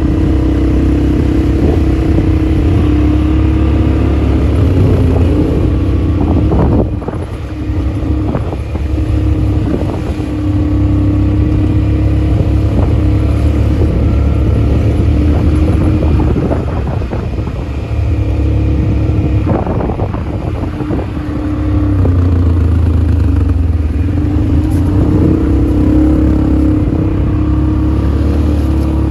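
All-terrain vehicle (ATV) engine running steadily while riding, dipping briefly in loudness about a quarter of the way in and again about two-thirds through before picking back up.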